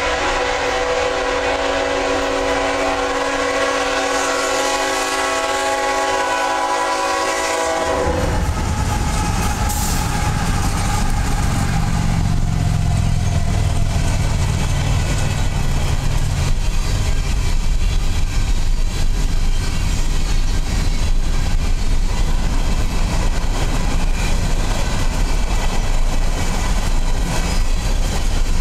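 CSX ET44AH locomotive's multi-chime air horn sounding one long steady blast for a grade crossing, cutting off about eight seconds in. The locomotive's diesel engine then passes with a low drone, giving way to loaded coal hopper cars rolling by on the rails with a steady clatter.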